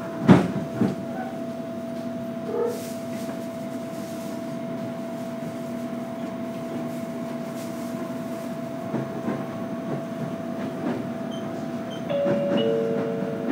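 Inside a JR Kyushu 815 series electric train: a steady running hum with a constant tone, a sharp knock about a quarter second in and a few faint clicks. Near the end come two short tones, the second lower.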